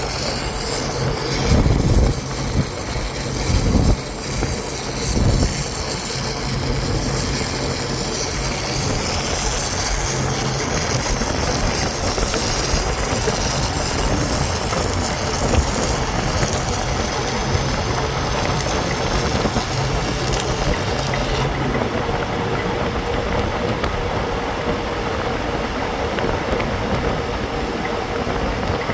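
Steady loud machinery noise with a low hum, with a few heavy thumps in the first five seconds; the high hiss drops away about 21 seconds in.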